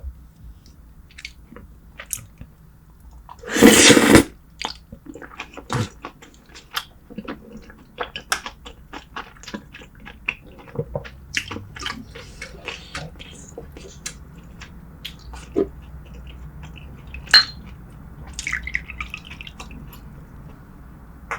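Close-miked eating of braised spicy seafood: wet chewing and smacking with scattered small clicks and taps, and one loud rushing noise lasting under a second about three and a half seconds in.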